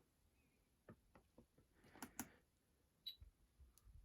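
Near silence broken by a few faint, scattered clicks and taps, with one short faint high beep about three seconds in.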